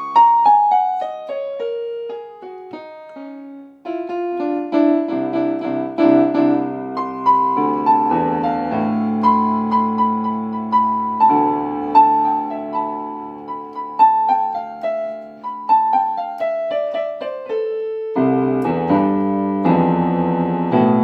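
Piano playing: a quick descending run of single notes opens, followed by a melody over held chords, another descending run about two-thirds through, and fuller chords near the end.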